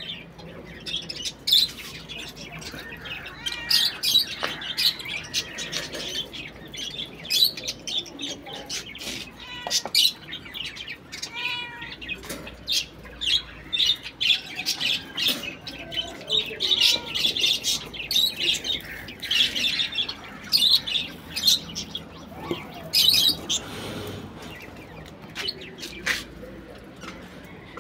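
Pet budgerigars chirping and chattering, a dense stream of short, high calls with a few longer warbled notes.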